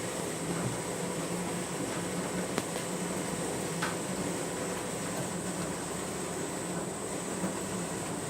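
Candy washing machine running its wash cycle: a steady motor hum with a few faint clicks.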